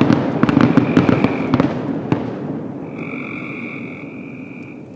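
Fireworks crackling and popping in dense bursts that fade away over the first two seconds. Then a frog calls with a steady, high-pitched trill held for about two seconds.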